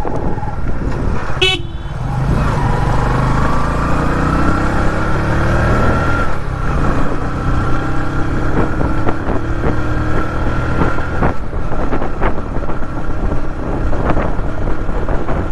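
Motorcycle engine accelerating in traffic: its pitch climbs, drops at a gear change about six seconds in, then climbs again. A short horn toot sounds about one and a half seconds in.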